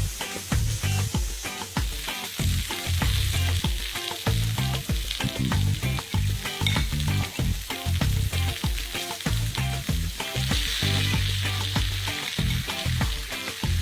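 Cauliflower steaks sizzling and frying in a hot pan, a steady hiss with crackle. Background music with a repeating bass line plays underneath.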